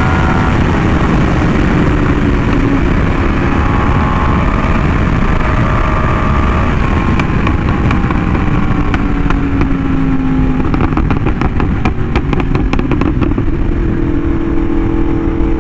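Yamaha R1M's crossplane inline-four through an SC Project exhaust, riding along with the engine note drifting slowly up and down under heavy wind noise. A run of rapid clicks comes through in the middle.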